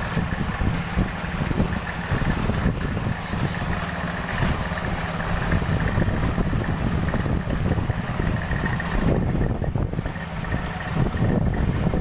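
Hino K13C straight-six diesel engine running steadily, with a faint steady high whine above the low engine note.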